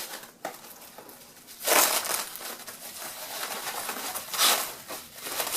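Sheets of small bubble wrap being handled and crinkled, with louder rustles about two seconds in and again past four seconds.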